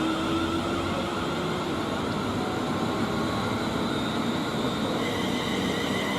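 A pair of class 350 Desiro electric multiple units pulling away. The steady running noise carries the whine of their electric traction equipment, with a higher tone joining about five seconds in.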